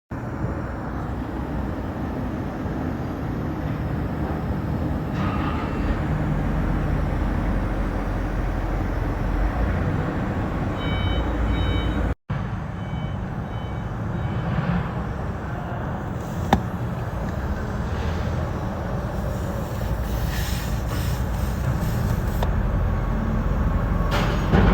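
Steady vehicle engine and traffic noise, with a short run of beeps about halfway through and a sharp click a few seconds later.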